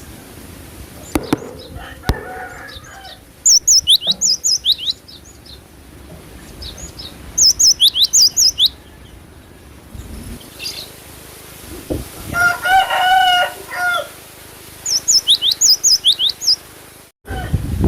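Cinereous tit (gelatik batu) singing: three bursts of quick, high, repeated sweeping notes. Between the second and third bursts a lower, fuller bird call runs for about two seconds.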